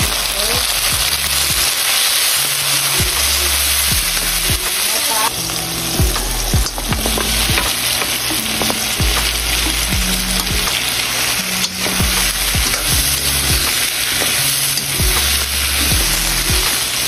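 Garlic, shallots and tomatoes sizzling in a hot nonstick wok as pieces of grilled chicken are added and stirred in with a spatula. Scattered light clicks of the spatula against the pan sound through the steady sizzle.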